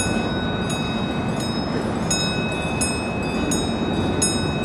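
Bell of a miniature ride-on mall train ringing in a steady rhythm, about one strike every 0.7 seconds, over a constant hubbub of train and mall noise.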